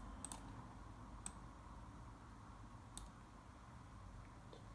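A few faint, sharp clicks in near silence: a quick pair at the start, then single clicks about a second and about three seconds in.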